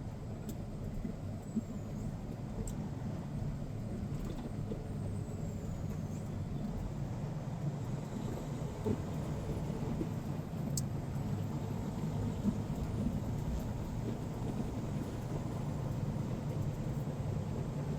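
Diesel semi-truck engine and road noise heard from inside the cab while driving: a steady low rumble that grows slightly louder over the stretch, with a few faint clicks.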